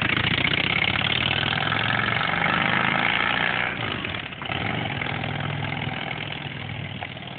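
Motorcycle engine running loudly; its sound dips briefly a little after halfway, picks up again, then fades toward the end.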